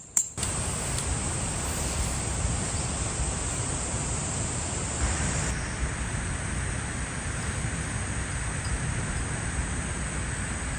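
Steady outdoor background noise: an even rushing hiss that starts abruptly, with a thin, steady high-pitched drone, insect-like, joining about halfway through.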